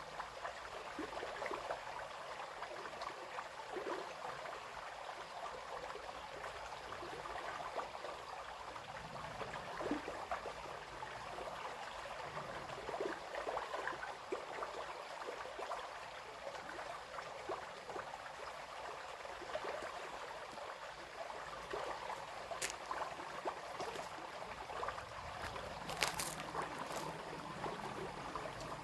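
Small brook babbling and splashing over stones, a steady trickling flow. A few brief sharp clicks sound near the end.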